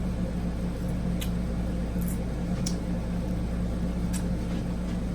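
A steady low electrical hum in a small room, with a few faint, short clicks.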